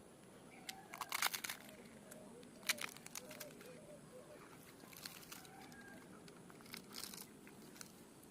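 Crisp crackling and tearing of a large fried puri torn apart by hand and eaten, in four short bursts with pauses between them.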